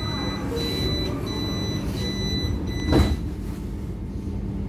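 Interior of an Intercity passenger coach slowly pulling out of the station: a steady low rumble with a thin high whine that cuts in and out, and a single loud thud about three seconds in.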